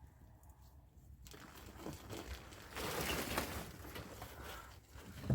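Crinkling, rustling noise that starts about a second in and swells and fades irregularly.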